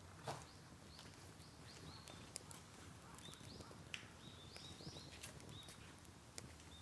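Faint bird calls at dawn: short high chirps, some sliding upward, coming in small clusters. A few sharp clicks sound now and then underneath.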